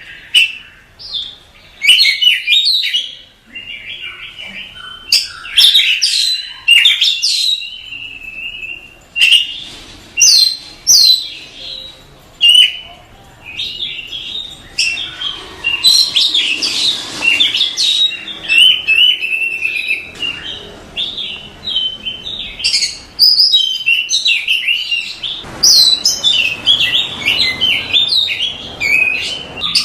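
Oriental magpie-robin singing a loud, varied song of rapid whistles and chirps, with scratchier, harsher stretches midway and again near the end.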